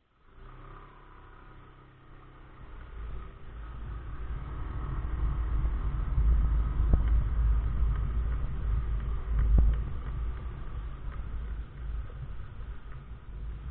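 SYM Joymax Z+ maxi-scooter riding off, its engine and a low rumble of wind on the helmet camera growing steadily louder over the first several seconds as it gathers speed, then holding steady.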